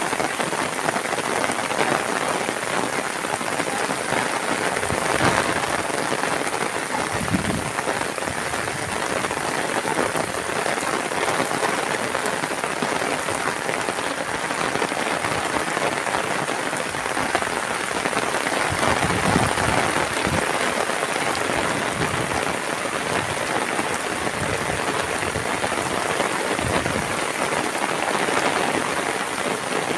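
Heavy tropical downpour falling steadily on roofs and ground, with a few brief low thumps.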